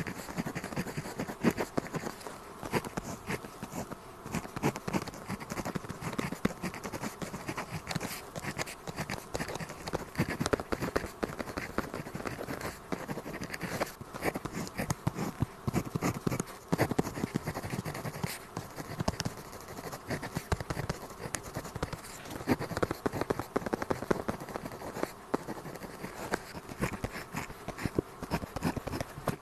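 Pen tip scratching on paper in continuous handwriting, a dense run of quick short strokes and light ticks.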